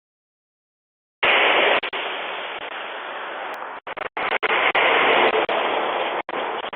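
Loud rushing road noise of a passing truck, starting abruptly after about a second of dead silence, with several brief dropouts near the end.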